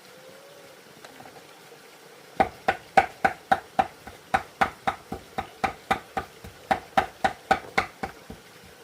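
Rapid, even knocking of a kitchen utensil, about four strokes a second with a slight ringing note, starting about two and a half seconds in and stopping shortly before the end.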